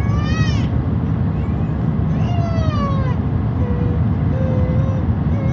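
Steady low rumble of airliner cabin noise on approach, with a few high, drawn-out cries over it: one rising near the start, a long falling one about two seconds in, and a held one near the end.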